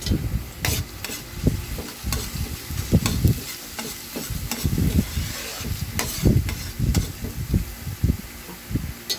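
Chopped ginger sizzling in hot oil in a wok, being browned, while a spatula stirs it with repeated scrapes and knocks against the pan, about one or two strokes a second.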